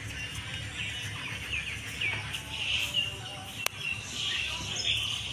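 Birds chirping and calling, many short chirps that rise and fall in pitch, over a steady low rumble. A single sharp click sounds about three and a half seconds in.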